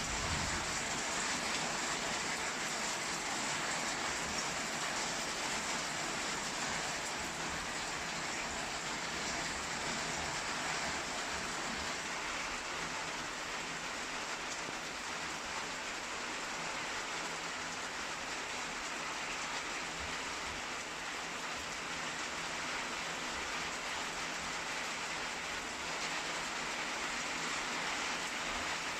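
Rain falling steadily during a thunderstorm: an even, unbroken hiss.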